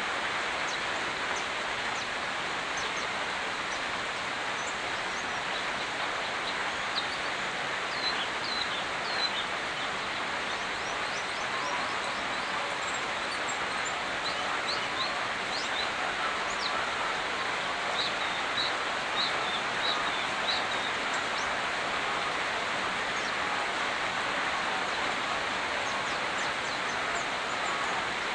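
Steady rain falling, an even hiss. Small birds chirp on and off, most between about 8 and 21 seconds in.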